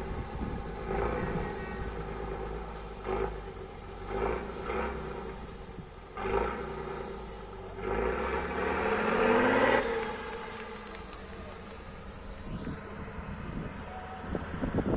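Tatra off-road truck's diesel engine working hard, revving up in several short bursts. About eight seconds in it makes one long climbing rev, the loudest part, then settles back to a lower drone.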